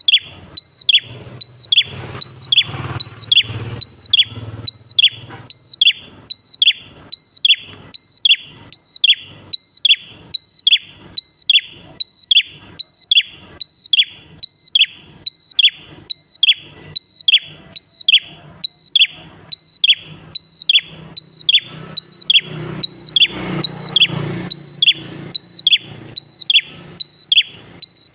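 Prenjak klawu (a small prinia-type songbird) calling in a steady repeated chirp: a short high note that drops sharply in pitch, about once every three-quarters of a second, evenly spaced throughout. A faint low rumble sits underneath twice.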